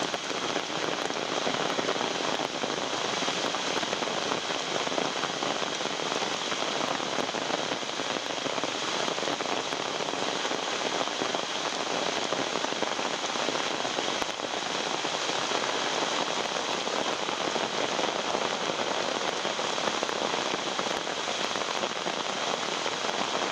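Rain falling on an umbrella held over the camera: a dense, steady patter of raindrops.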